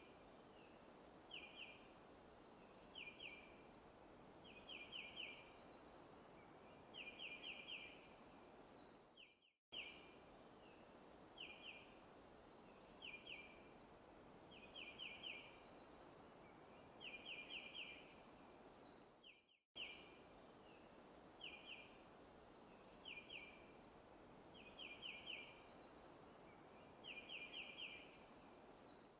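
Faint forest ambience: a steady soft hiss with a bird calling in short runs of quick, high chirps, each run a little longer than the last, from two notes up to about five. The same ten-second stretch repeats as a loop, with a brief dropout about ten and twenty seconds in.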